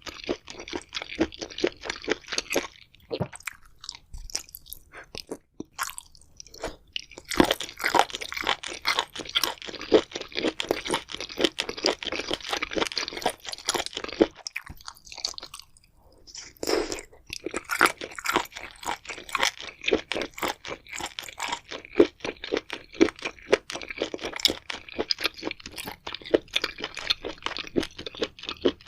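Close-miked eating: rapid crisp crunching and chewing of crunchy food, with two short pauses, one a few seconds in and one about halfway through.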